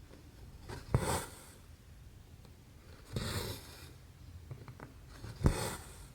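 Needle pushed through stamped cross-stitch canvas and the embroidery thread drawn through with a swish, three times about two seconds apart, two of them opening with a sharp tap of the needle, plus faint ticks in between.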